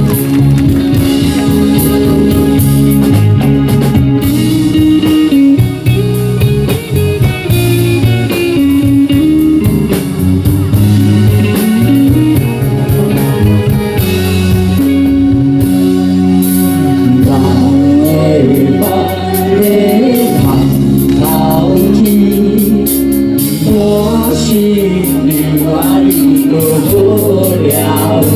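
Live rock band playing loudly through a PA: electric guitar, bass and drum kit keep a steady beat, with a melody line that bends in pitch through the second half.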